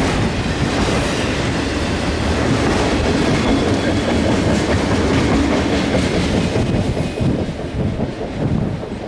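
CSX freight train's cars rolling past, a steady rumble and clatter of steel wheels on the rails, becoming uneven and somewhat quieter near the end.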